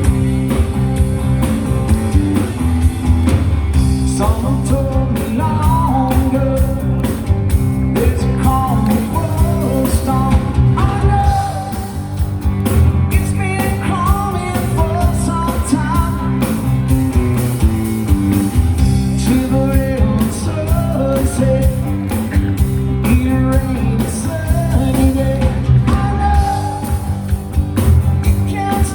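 Live rock band playing a mid-tempo song with a steady beat, guitar and a lead singer, the vocals coming in about four seconds in.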